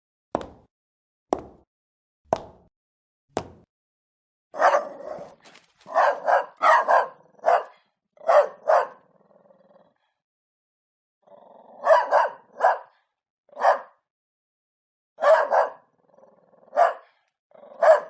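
A sharp tick about once a second for the first few seconds, then a dog barking in short repeated barks. The barking comes in two bouts with a pause of about two seconds in the middle.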